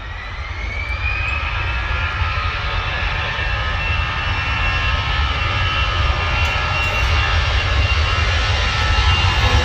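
Jet airliner's engines: a whine that rises in pitch over the first second or so and then holds, over a low rumble, the whole sound growing steadily louder.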